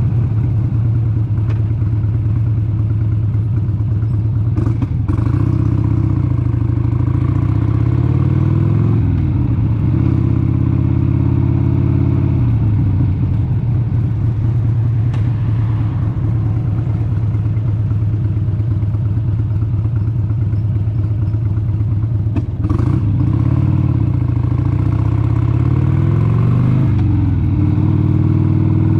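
1996 Harley-Davidson XLH883 Sportster's 883 cc air-cooled V-twin running on the road. Its engine speed drops and climbs again several times, as with throttle changes and gear shifts.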